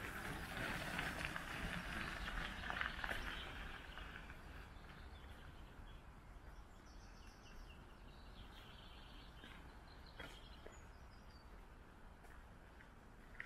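Faint outdoor birdsong: runs of short high chirps in the middle, over a soft hiss that fades after the first few seconds.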